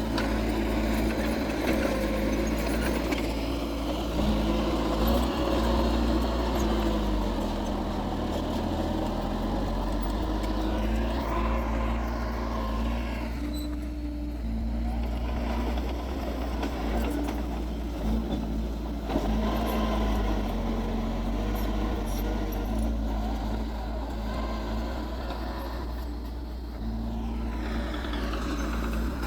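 Diesel engine of heavy earthmoving machinery running continuously under changing load. Its pitch shifts up and down several times, with rising sweeps about halfway through and again near the end.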